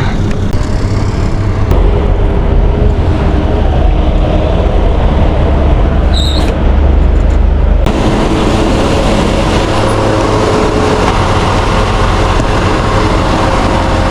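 Loud, steady road-traffic and wind noise with a deep rumble, changing abruptly about two and eight seconds in.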